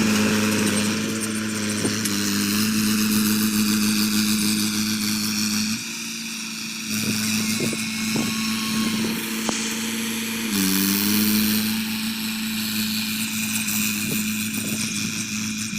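Mahindra 575 DI tractor's four-cylinder diesel engine running steadily while pulling a spring cultivator through a field. About ten seconds in, its pitch dips briefly and then recovers.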